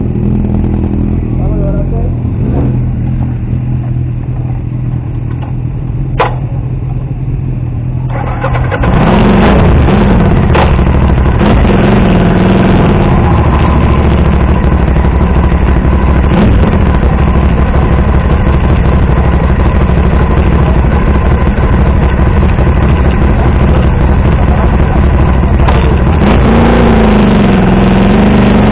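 Motorcycle engine running at low revs, then about eight and a half seconds in it gets much louder as the bike pulls away and rides on, the engine pitch rising and falling under a loud rushing noise. A single sharp click comes about six seconds in.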